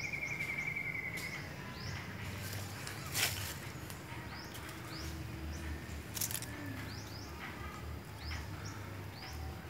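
Outdoor ambience: a bird repeating short falling chirps about once a second over a low hum, with a steady high whistle fading out in the first second and a half and two brief rustling bursts, about three and six seconds in.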